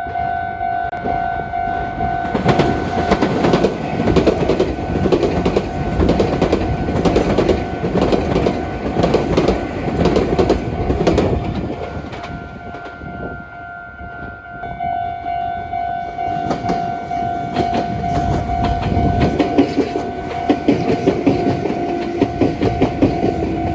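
Japanese level-crossing warning bell ringing steadily as a Meitetsu electric train runs over the crossing with rattling wheel clatter. The clatter dies down about halfway through, and a second train starts passing a few seconds later while the bell keeps ringing.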